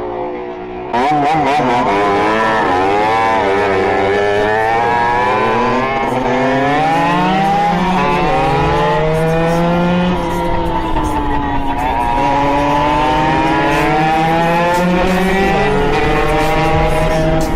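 Beta RR 50 two-stroke with a 70 cc Airsal kit and SCR Corse expansion chamber, ridden hard. The engine pitch rises and falls as it revs up and shifts. The throttle opens about a second in, and the engine becomes loud.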